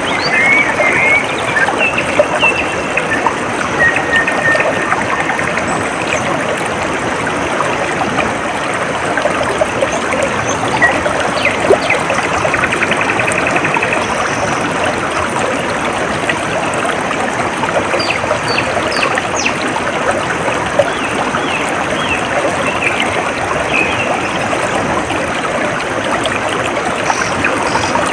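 Stream of water trickling and babbling steadily, with a few bird chirps over it, mostly in the first few seconds.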